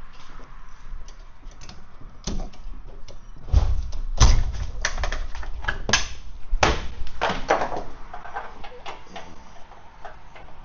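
Irregular knocks, clanks and thuds, with heavy thuds about four seconds in and loud knocks again near six and seven seconds.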